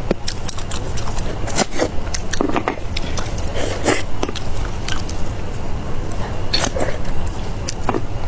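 A person biting and chewing food close to the microphone, with irregular wet crunches and smacks over a steady low background rumble.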